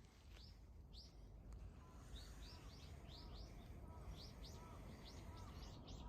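Small birds chirping faintly: a run of short, high notes that each sweep downward, sparse at first and coming a couple a second after about two seconds, over a low steady background rumble.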